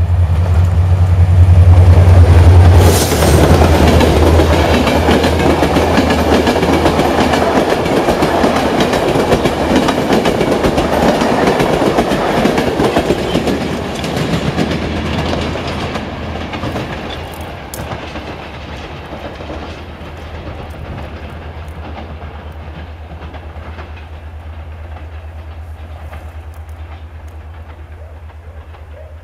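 A train passing close by: a low steady hum under the clatter of wheels on the rails, loudest in the first few seconds with a sharp click about three seconds in, then dying away over the second half.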